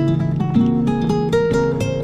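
Acoustic guitar music, with notes plucked in quick succession over a steady bass line.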